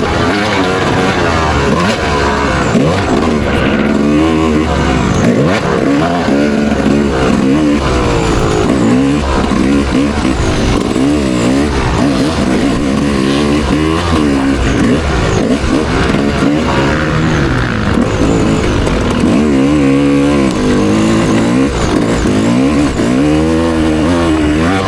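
Motocross dirt bike engine racing, revving up and down over and over as the throttle is opened and closed, its pitch rising and falling every second or two.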